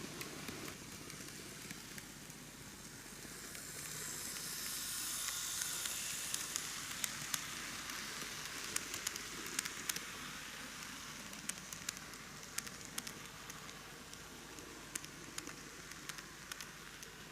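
KATO N gauge C11 model steam locomotive pulling passenger cars along the track: a hissing whir of motor and wheels, with many scattered sharp clicks. The sound swells a few seconds in as the train passes close by, then fades a little.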